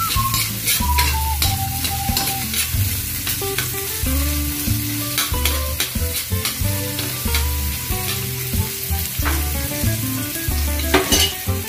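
Chopped garlic, ginger and onion sizzling in hot oil in a metal wok, being sautéed, with a spatula scraping and clicking against the pan now and then. Soft background music with a steady bass plays underneath.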